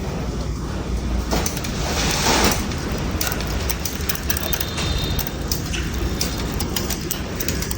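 Bicycle noise: a steady low rumble with many irregular sharp clicks and ticks, and a brief louder rush of noise about a second and a half in.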